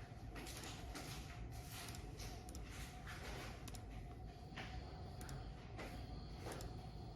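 Scattered clicks and small handling noises of a computer mouse in use, over a faint steady hum.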